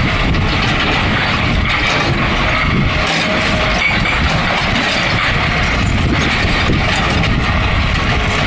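Excavator running steadily under work.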